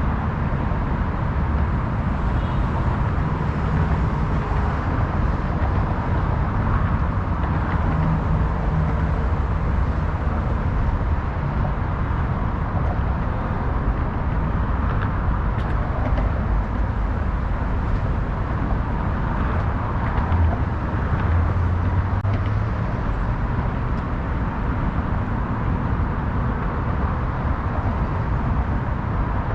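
Steady city road traffic noise: a continuous low rumble of passing cars, with no single vehicle standing out.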